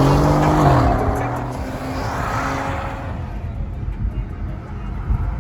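A car engine revving, its pitch dropping about a second in, followed by a rush of engine and tyre noise that settles into a steadier low rumble.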